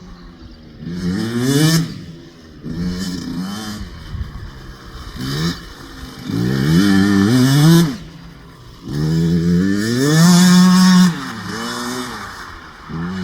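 Husqvarna TC65 two-stroke motocross bike ridden through mud, its engine revving up and dropping back several times as the rider works the throttle and gears. The pitch climbs in steps, and near the end it climbs high and holds.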